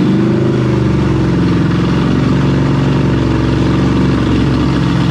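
Ford Crown Victoria's 4.6-litre V8 revving up at the start, then held running at a raised speed that wavers slightly, while it swallows Jell-O fed in through a vacuum line.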